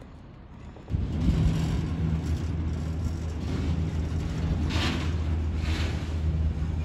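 Freight train of tank wagons rolling past close by. It starts suddenly about a second in as a loud, steady low rumble, and the hiss of the wheels swells twice.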